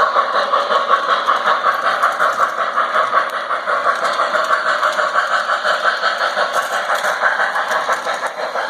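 Model train locomotive running in reverse along the layout track, a steady, fast and even rhythmic clatter.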